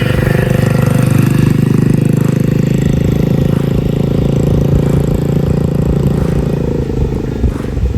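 Mini bike's small engine running at a steady speed, easing off slightly near the end.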